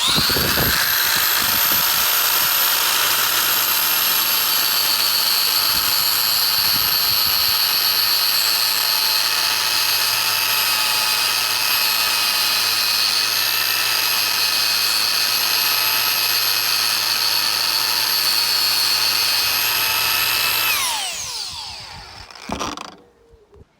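Angle grinder with a thick 5–6 mm disc running at full speed, grinding out cracked mortar joints in brickwork with a loud, steady whine. After about 21 seconds it is switched off and spins down with a falling whine, followed by a short knock.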